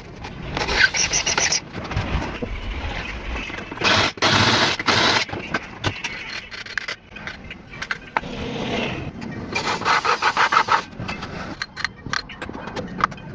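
Scraping and rubbing on a motorcycle cylinder head during cleaning, in bursts of quick back-and-forth strokes.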